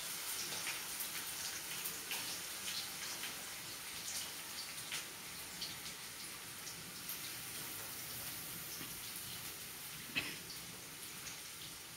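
Potato sticks for French fries frying in oil in a pan: a faint, steady sizzle with scattered small crackles. A single light knock about ten seconds in.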